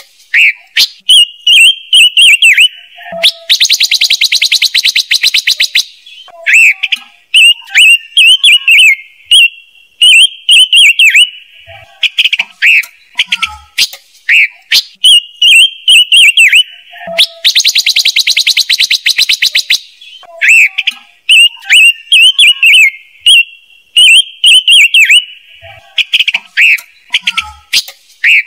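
Looped lure recording of the bird sold as 'chim ngũ sắc', made for bird-trap speakers: loud, quick whistled song phrases. Twice the song breaks into a fast trill of about two and a half seconds, the same sequence repeating about every fourteen seconds.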